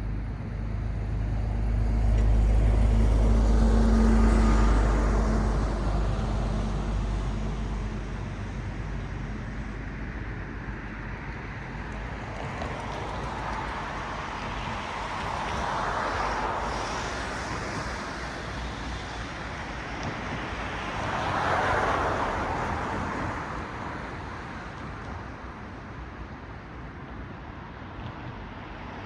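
Cars passing on a road. A vehicle with a deep engine rumble goes by in the first few seconds, the loudest pass. Then cars pass one after another, their tyre noise swelling and fading, once around the middle and again about two-thirds through.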